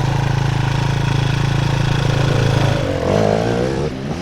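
Dirt bike engine running at a steady pitch for about three seconds, then the sound turns uneven and wavering in pitch near the end.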